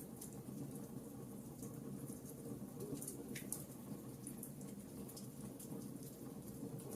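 Wood fire burning in a fireplace: logs crackling with scattered sharp pops over a steady low rumble of flame.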